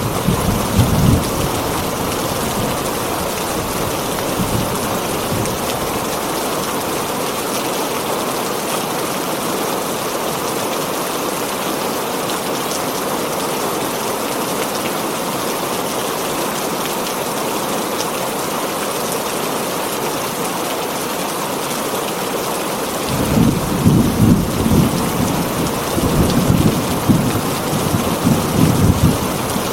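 Heavy rain pouring steadily on a tin roof, with thunder rumbling in the first second or so and again through the last several seconds.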